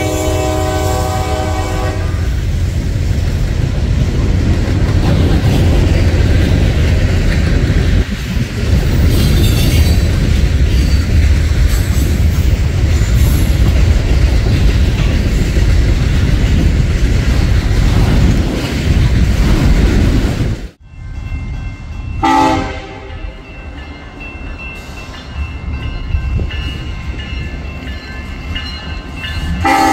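A diesel train horn ends about two seconds in. Then a long freight train of gondolas, tank cars and autorack cars rolls past with a loud, steady rumble and wheel clatter. The rumble drops off suddenly about two-thirds of the way through, and Union Pacific diesel locomotives approaching a grade crossing give a short horn blast, then another near the end, while the crossing bells ring.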